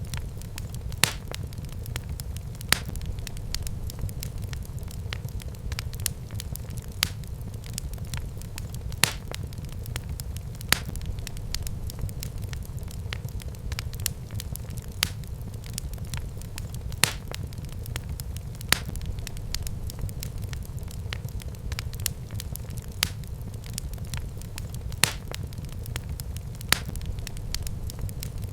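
Wood fire burning in a fireplace: a steady low rumble of flames with sharp crackling pops every second or two.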